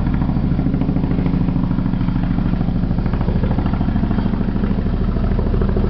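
Boeing Vertol 107 tandem-rotor helicopter on approach, its rotors giving a rapid, steady beat over a low steady drone.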